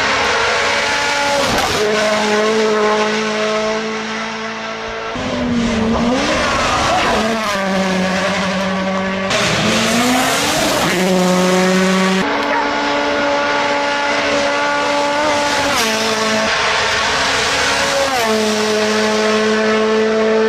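Rally car engines running at high revs with tyre squeal, the pitch held steady for stretches and dipping then rising again a couple of times.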